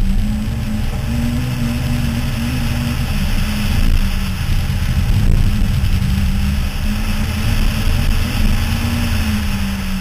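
Toyota Starlet rally car's engine running hard at speed, its note held high and shifting slightly a few times, over a steady rushing noise of wind and tyres on the gravel.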